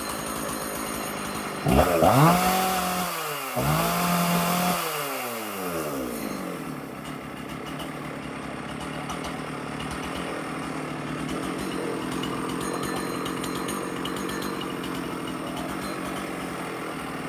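Jonsered 670 Champ two-stroke chainsaw idling, revved up to full throttle twice in quick succession about two seconds in, each rev held for about a second before dropping back to a steady idle. It revs out well: it "runs out pretty good."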